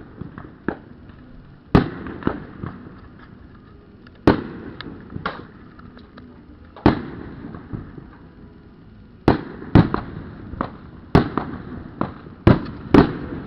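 Aerial fireworks shells bursting: loud sharp booms, each trailing off in a rumble, a few seconds apart at first and coming faster in the last few seconds, with smaller pops and crackles between.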